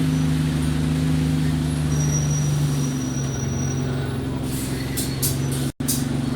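Diesel engine of an Alexander Dennis Enviro200 single-deck bus running steadily, its note dropping slightly about halfway through. A few short high hisses come near the end, and the sound cuts out for an instant just before the end.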